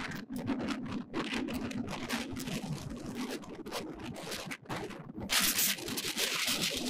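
Strong mountain wind buffeting the microphone in rough, irregular gusts, with the heaviest gust about five and a half seconds in.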